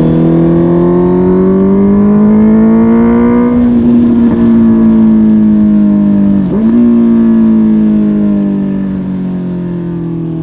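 Honda CB650R's inline-four running through a MIVV GP Pro Carbon exhaust under way. Its note climbs steadily for a few seconds, then eases off. It dips briefly about six and a half seconds in, then falls steadily and fades as the bike slows.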